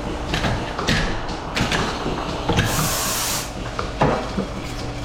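DeLaval VMS 300 robotic milking arm attaching teat cups to a cow: scattered clunks and knocks of the arm and cups, with a short hiss of air about three seconds in.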